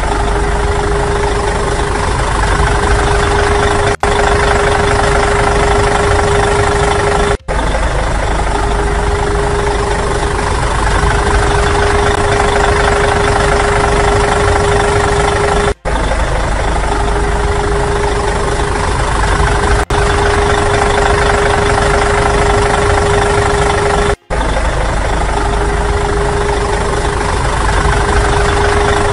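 Engine sound effect, like a diesel idling steadily with a constant hum, laid over the footage; it breaks off for an instant five times and starts again at each edit.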